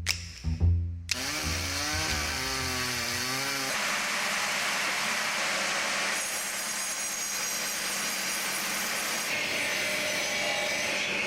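Woodworking machinery running and working wood: a steady whirring noise that starts about a second in. A wavering tone sits over it for the next few seconds, and a higher whine comes in near the end.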